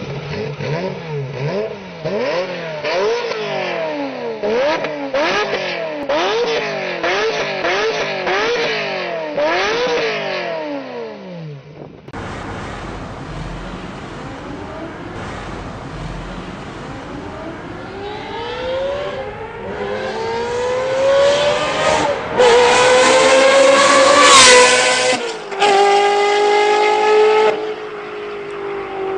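A high-revving car engine is blipped up and down about once a second. After an abrupt change in the sound, it accelerates with a climbing pitch that drops at each gear shift, then holds a slowly falling note near the end.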